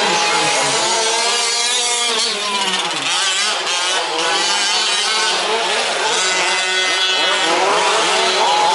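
Several 1/5-scale remote-control trucks' small two-stroke petrol engines revving together, their overlapping pitches rising and falling as the throttles open and close.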